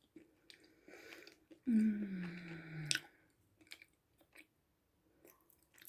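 Close-miked chewing with wet mouth clicks, and a contented 'mmm' hum about two seconds in that lasts over a second and falls in pitch.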